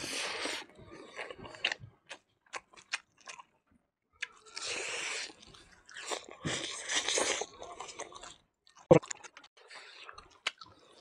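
A person chewing and crunching mouthfuls of rice and raw greens close to a clip-on microphone, with wet lip smacks and small mouth clicks. There are bursts of crunching at the start, at about five seconds and at about seven seconds. A sharp, loud smack comes about nine seconds in.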